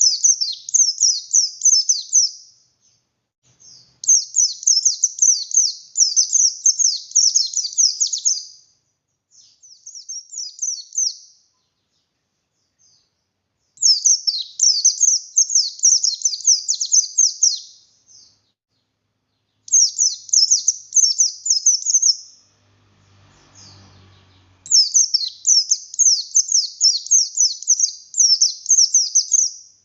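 Buxtoni white-eye (pleci) singing in loud, fast, high chirping bouts of two to four seconds each, six bouts with short pauses between them. This is the full, open-beaked song that keepers play to set other white-eyes singing. A faint low rumble comes in during one pause, a little past two-thirds of the way through.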